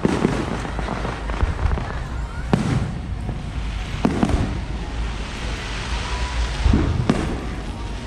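Fireworks going off: about four sharp bangs, each trailing off in an echoing rumble, over a steady low rumble.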